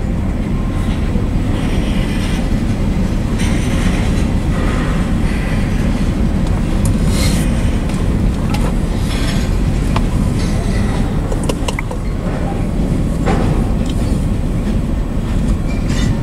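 Freight train cars (tank cars and covered hoppers) rolling past on the rails: a steady heavy rumble of steel wheels, broken by scattered sharp clacks and brief high squeals.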